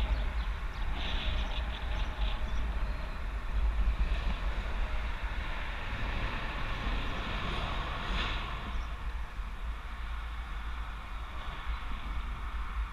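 Wind buffeting the microphone of a bicycle-mounted action camera while riding: a steady low rumble with a rushing hiss over it.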